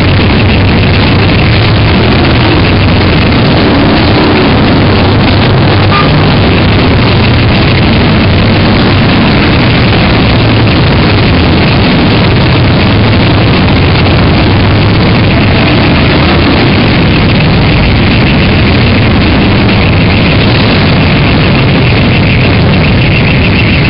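Many motorcycle engines running together as a procession of bikes rides past, a loud, steady din without let-up.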